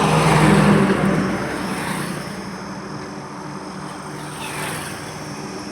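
A motor vehicle passing close by on a road, its engine hum and tyre noise loudest about half a second in, then fading away into steady background traffic noise.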